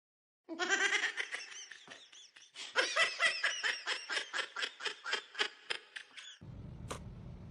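A person laughing: a drawn-out opening laugh, then a run of quick repeated ha-ha pulses, about four a second, that stops abruptly near the end.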